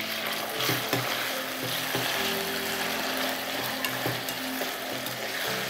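Chopped tomatoes and onions sizzling in hot oil in a kadai as they are sautéed, stirred with a steel spoon that scrapes and clinks against the pan now and then.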